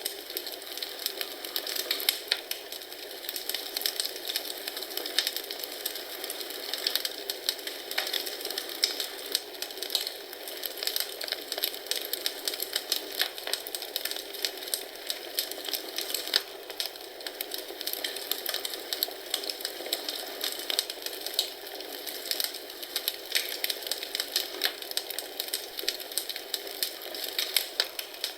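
Wood fire crackling in a fireplace: a steady hiss with many irregular sharp pops and snaps.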